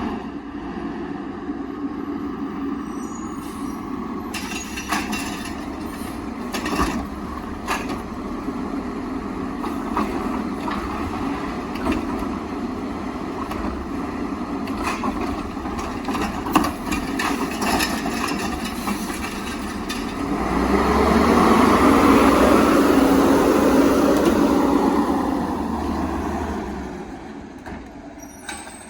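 LNG side-loader garbage truck working its route: the engine runs steadily under scattered clanks and knocks, then revs up loudly for about five seconds, from about twenty seconds in, before easing back down.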